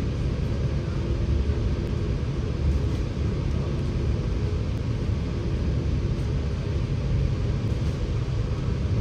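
Scania K94UB single-deck bus's diesel engine running steadily, a low rumble with no sharp events.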